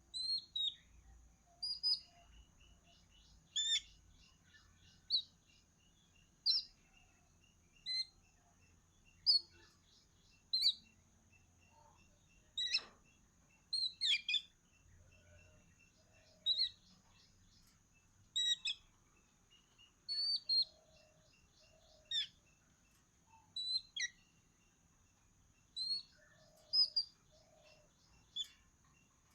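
Small birds chirping: short, sharp high calls about every one to two seconds, some followed by a quick rattling trill, over a faint steady high-pitched tone.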